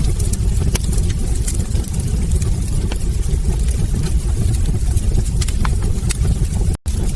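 Wood fire in a fireplace crackling, with a steady low roar under frequent sharp pops and snaps. The sound cuts out for an instant near the end.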